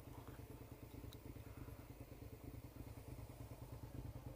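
Motorcycle engine running steadily, faint.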